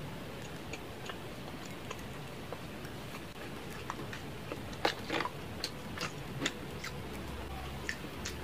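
A person chewing pizza close to the microphone: scattered small wet mouth clicks and smacks, with a louder cluster of them about five seconds in.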